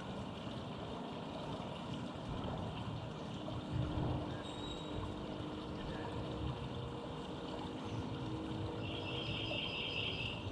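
Steady urban traffic noise with a vehicle engine's hum rising out of it in the middle and fading again, plus a brief high trill near the end.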